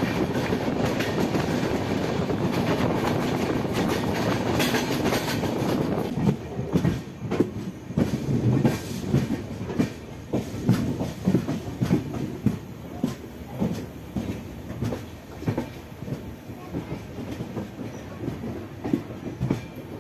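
Passenger train running, heard from on board. A steady rumble gives way about six seconds in to uneven clacks of the wheels over rail joints.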